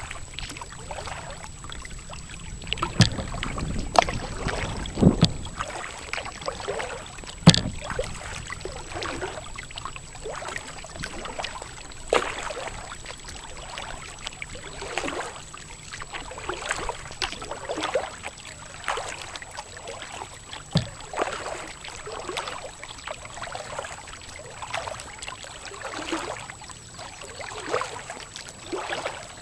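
Kayak paddle strokes: the blades dipping and splashing through the water in a steady, repeating rhythm, with a few sharp knocks in the first several seconds.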